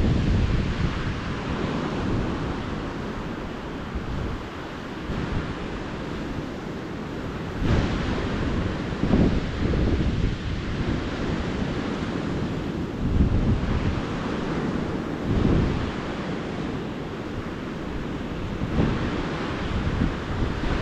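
Ocean surf washing onto a beach, a continuous rush with swells every few seconds, with wind buffeting the microphone.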